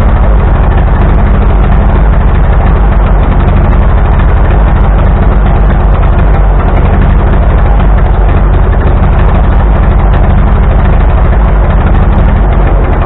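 1945 Ford 2N tractor's four-cylinder flathead engine running steadily and loud, close to the microphone, fitted with new points and a new carburetor.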